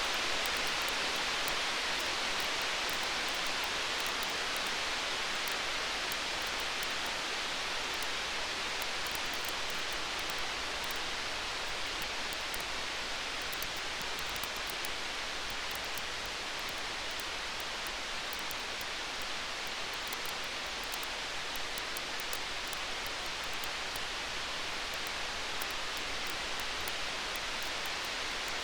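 Wood fire crackling: a steady hiss with a dense run of fine, sharp pops and snaps.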